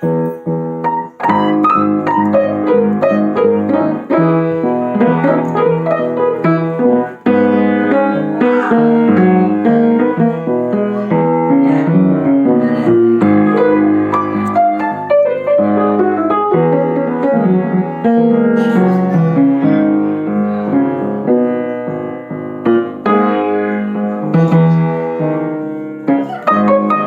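Solo piano music: many notes played in quick succession with chords, steady and continuous.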